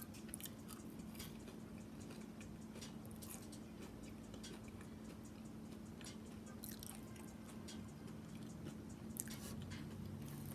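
Close-miked chewing of a sandwich: soft, wet mouth clicks and smacks scattered throughout, over a faint steady hum.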